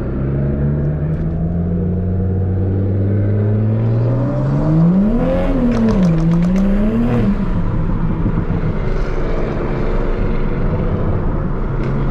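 Tuned Toyota Supra MK5's turbocharged B58 inline-six under way, its pitch climbing steadily for about four seconds as the car accelerates. Midway the revs swing up and down twice with a few sharp clicks, then settle to a steady lower note.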